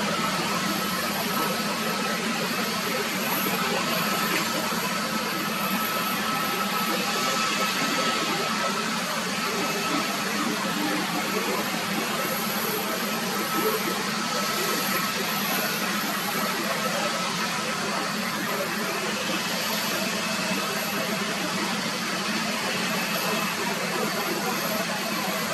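Jet airliner engines running: a steady, even rush with thin, steady whining tones over it.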